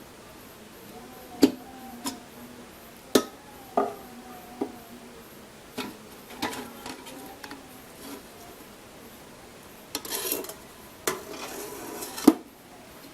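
Rice cooker being taken apart: a string of sharp metallic clanks and knocks from its casing and parts, each ringing briefly, with a short spell of scraping about ten seconds in and a loud knock near the end.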